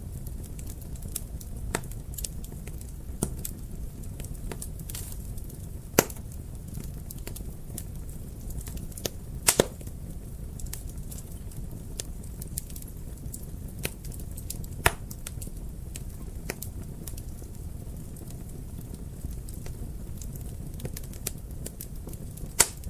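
Wood fire in a fireplace crackling: a steady low rumble of flames with frequent small snaps and a few sharp, louder pops.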